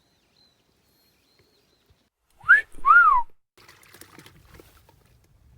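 A person whistling a two-part wolf whistle, a quick upward swoop followed by a rising-then-falling note, about two and a half seconds in. Faint rustling and clicking follow.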